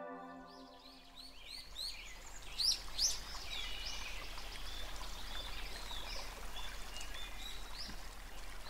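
Small birds chirping in quick, repeated high calls, thickest in the first few seconds and then sparser, over a soft outdoor background; the tail of a music track fades out at the start.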